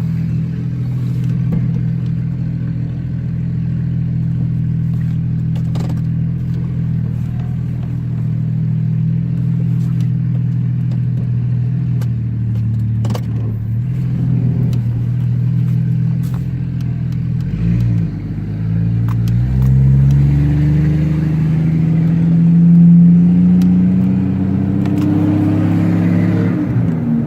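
Jeep 4.0L straight-six running loud through a straight-piped exhaust with no muffler: it idles steadily for most of the time. About two-thirds through, the engine speed changes and then climbs slowly before falling back near the end as it is throttled.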